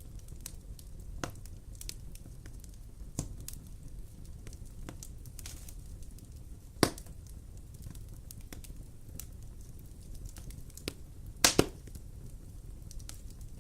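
Wood fire in a fireplace crackling, with scattered sharp pops over a low steady rumble. The loudest pop comes about seven seconds in, and a quick double pop follows near the end.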